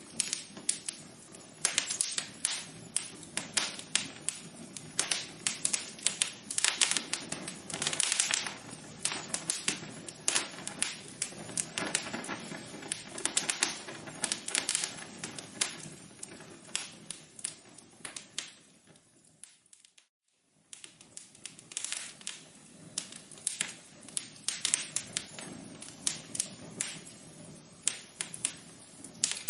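Wood fire crackling in a fireplace: frequent, irregular sharp pops and snaps over a low hiss. About two-thirds of the way through it fades out for about a second, then comes back.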